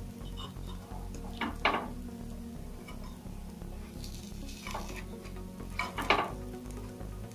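A metal spoon and a wooden stick scrape and tap against a non-stick appe pan as frying ponganalu are turned in their cups, over a sizzle of oil. Two scrapes stand out, about a second and a half in and about six seconds in.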